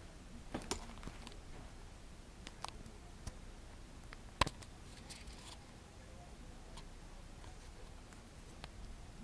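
A few faint, scattered clicks and taps over low room hiss. The sharpest single click comes about four and a half seconds in.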